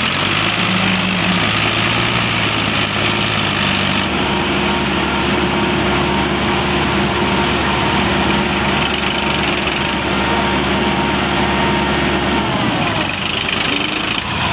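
Tractor diesel engine running steadily. Its note changes about four seconds in and drops away shortly before the end.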